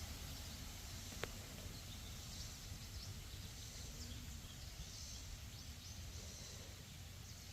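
Quiet summer outdoor ambience: insects trilling high up in pulses over a low rumble of wind or camera handling, with one sharp click about a second in.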